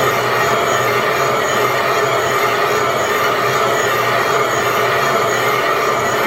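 Steady mechanical noise of a line-shaft-driven boring bar cutting out an old hit-and-miss engine cylinder to take a new sleeve, running evenly without a break.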